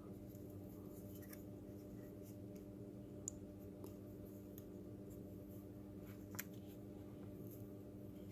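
Faint, scattered clicks and taps of plastic robot-kit parts being handled and fitted together, the neck piece being seated on the body shell, over a steady low hum.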